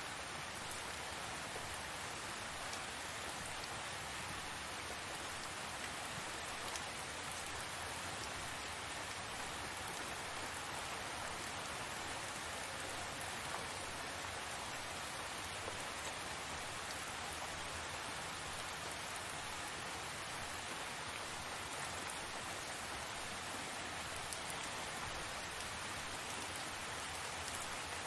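Steady heavy rain falling, an even hiss with scattered drops pattering on surfaces.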